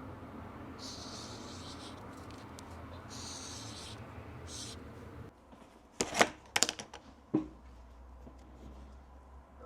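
Steady background hiss with brief bursts of higher hiss, which stops suddenly; a few seconds later a quick cluster of sharp clicks and knocks.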